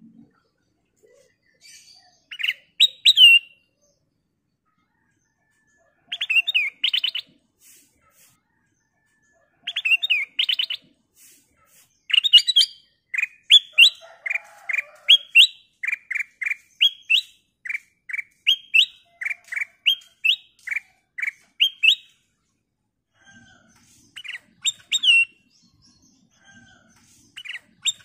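Black-crested bulbul (kutilang emas) singing: short bright whistled phrases with pauses between them. In the middle comes a run of repeated short rising notes, about two a second, for nearly ten seconds.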